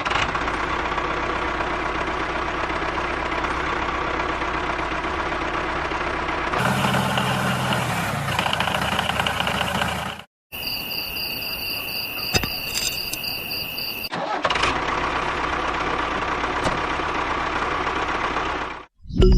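Small engine of a homemade mini tractor running steadily, in several short clips cut together, with a brief dropout about ten seconds in.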